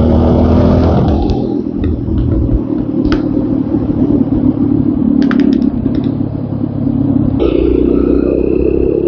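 TVS Apache RTR 200 4V's single-cylinder engine running on the move; the engine note drops about a second in and picks up again a little after seven seconds. A few short clicks sound in the middle.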